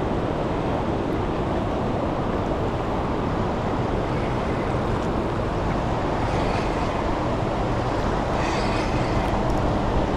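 Steady rushing noise of fast, turbulent river current mixed with wind on the microphone.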